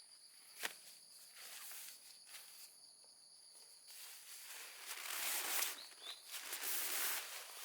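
Rustling and crunching on the ground, louder through the second half, over a steady high insect trill.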